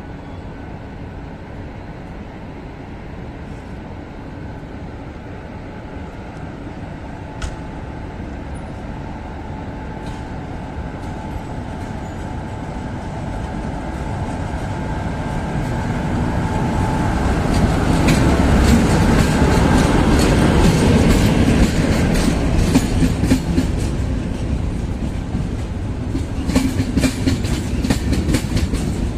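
A long passenger train running past on the track, growing louder to a peak about two-thirds of the way through, its wheels clicking over rail joints with a faint steady tone underneath.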